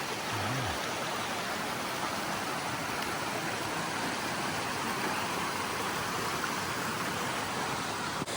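Steady rush of a fast mountain creek and waterfall.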